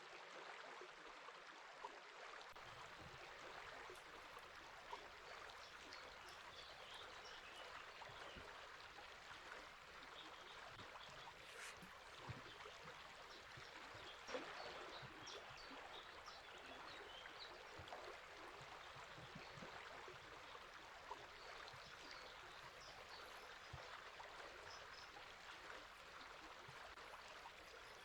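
Faint steady rush of flowing river water, with small birds chirping, high and brief, scattered across it and clustering in two spells.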